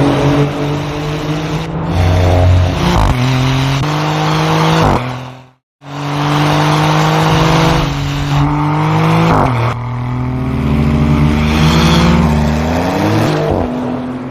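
Maserati GranTurismo's twin-turbo V6 engine climbing in revs several times, each pull followed by a drop in pitch. The sound cuts out briefly about five and a half seconds in.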